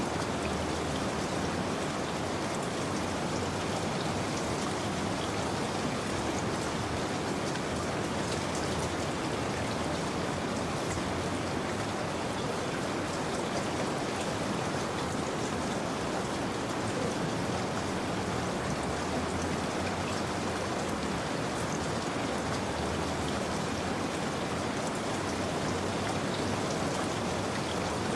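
Steady rain falling, a continuous even hiss with scattered drop patter, unchanging throughout.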